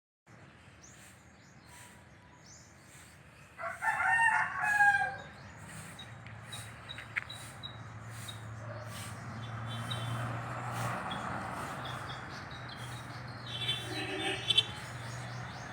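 A rooster crows once, about four seconds in, over scattered small-bird chirps. A steady low hum grows louder through the second half.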